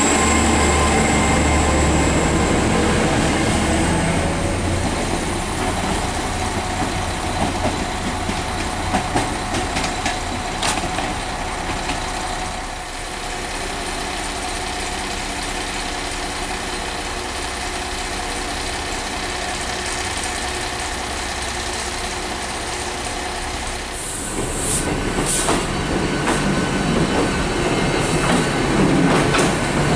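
A passenger train running slowly through a station. Heavy low rumble with a high wheel squeal at the start eases to quieter, steadier running in the middle. About three-quarters through there is a short burst of high hiss, and then it grows louder again.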